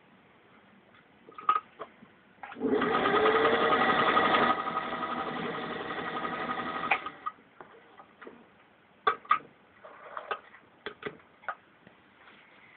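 1947 Singer 201-2 sewing machine running for about four seconds, stitching through six layers of denim; its motor comes up to speed with a rising whine, runs loudest for the first two seconds, then continues a little quieter and stops. Scattered clicks and knocks come before and after the run.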